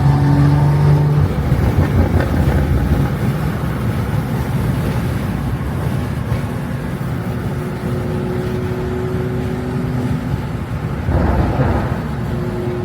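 BMW M340i's turbocharged inline-six running steadily at cruise, heard from inside the cabin under a constant rumble of road and wind noise. A short, louder rush comes about eleven seconds in.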